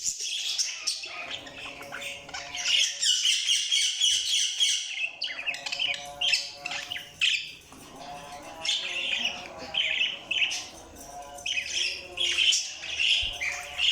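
Budgerigars chirping and warbling in a busy, continuous stream of chatter, mixed with short squawks.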